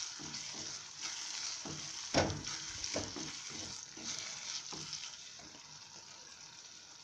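Onion-tomato masala sizzling in a kadai while ginger-garlic paste is stirred in, with a spoon knocking and scraping against the pan several times. The stirring stops about five seconds in, leaving a softer sizzle.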